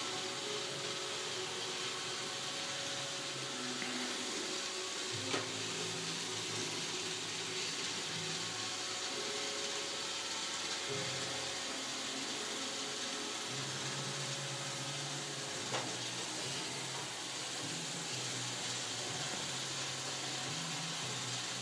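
Roomba robotic vacuum cleaner running: a steady whirring hiss with a low motor hum that shifts in pitch now and then. Two sharp knocks, about ten seconds apart.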